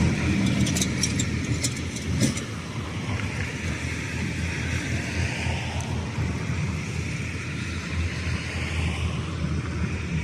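Steady low engine rumble, with a few sharp clicks and a knock in the first couple of seconds.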